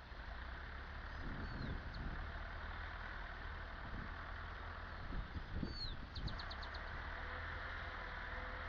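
Massey Ferguson 275 tractor's diesel engine running steadily while ploughing, with a few low thumps about a second in and again near the middle. Birds chirp twice, and a quick bird trill sounds just past the middle.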